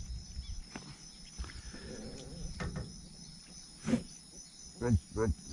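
Steady high-pitched insect chorus, crickets or similar, with scattered low knocks and thumps and a sharp click about four seconds in.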